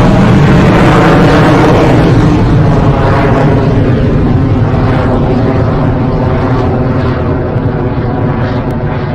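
Rocket Lab Electron's nine Rutherford engines thundering during the first seconds of ascent after liftoff. It is a loud, dense rumble that fades slowly and loses its high end as the rocket climbs away.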